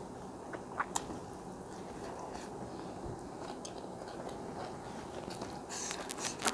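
Close-miked chewing and mouth sounds of someone eating biryani rice by hand, with a few sharp clicks about a second in and a quick cluster of them near the end.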